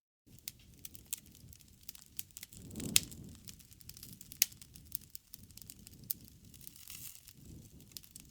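Campfire burning, with irregular sharp crackles and pops over a low rumble of flame. The loudest pops come about three seconds in and again a second and a half later.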